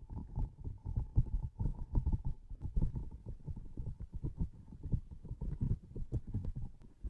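Close-miked transparent sticky objects being pressed and squeezed by hand, giving a rapid, irregular run of soft low thuds and sticky taps.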